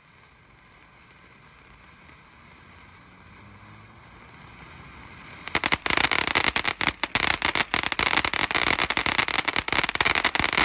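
A consumer firework going off: a faint hiss builds for about five seconds, then it breaks into dense, rapid crackling that keeps going.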